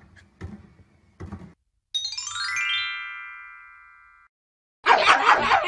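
A short transition jingle: a quick falling run of ringing, bell-like notes that fade out over about two seconds. Near the end, a small dog starts barking loudly.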